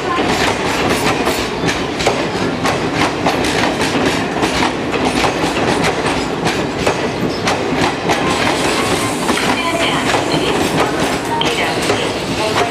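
A train running past, its wheels clattering steadily over the rail joints.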